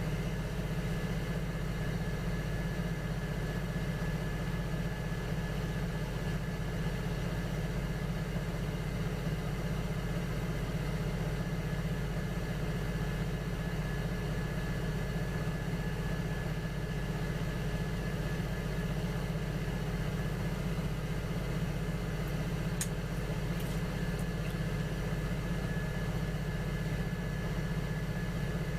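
Electric potter's wheel motor running steadily with a low hum and a faint high whine, during wheel throwing of small vases; a few light clicks about two-thirds of the way through.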